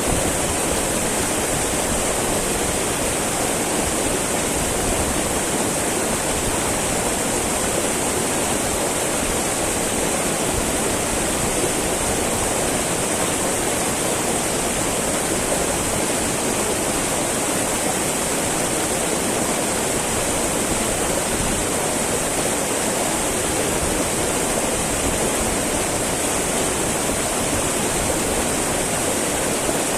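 Small mountain river babbling steadily, with no breaks or changes.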